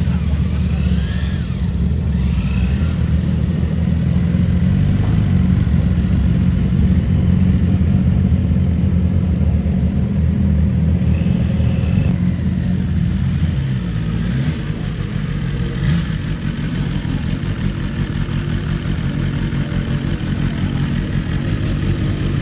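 Sport motorcycle engines running, mostly a steady idle rumble, with short revs rising in pitch about a second in and again around eleven seconds in.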